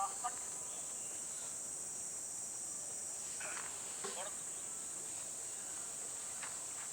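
Steady high-pitched drone of insects chirring, with faint distant voices calling out about three and four seconds in.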